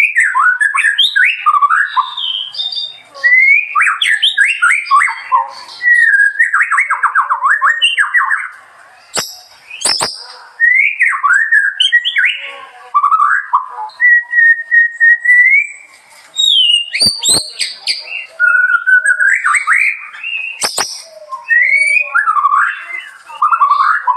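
Songbird singing a rich, varied run of whistled phrases, rapid up-and-down sweeps and trills, with one long level whistle in the middle, broken several times by sharp clicks.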